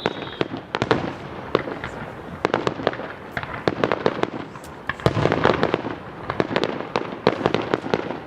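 Fireworks going off in quick succession: a dense run of sharp cracks and bangs that thickens about five seconds in, with a thin falling whistle dying away in the first half second.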